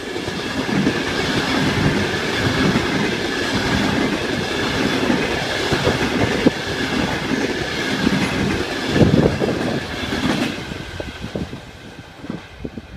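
ETR 460 Pendolino electric train passing close at speed: a steady rush of wheel and air noise with rapid wheel clatter over the rail joints, fading near the end as the last coach goes by.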